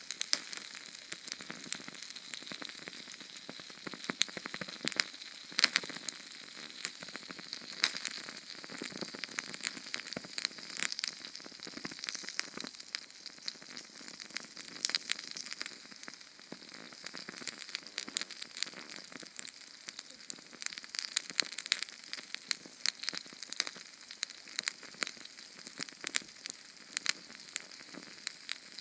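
Small Sterno canned-fuel flame burning, with a steady hiss and dense, irregular crackles and pops.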